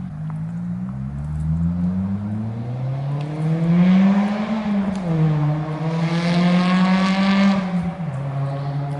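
Mazda MX-5 Miata (ND) four-cylinder engine through a new Invidia aftermarket exhaust, accelerating: the note climbs in pitch for about four seconds, drops back about halfway through as it shifts up, holds steady, then falls again near the end.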